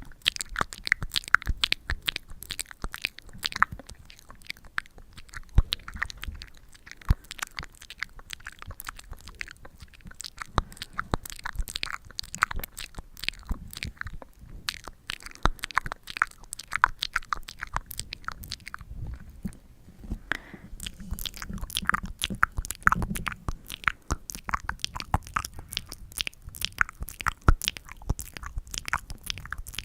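Close-up sticky ASMR sounds: a tacky material stuck and pulled apart right at the microphone, making a dense, irregular run of small crackly clicks and pops.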